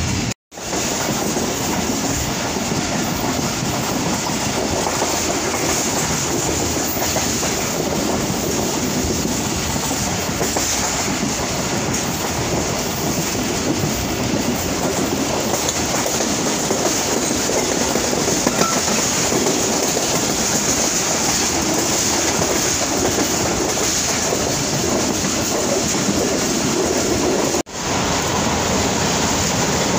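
Passenger train running steadily, heard from inside a carriage by the window: an even, continuous rumble and rush of wheels on the rails. The sound cuts out briefly just after the start and dips again near the end.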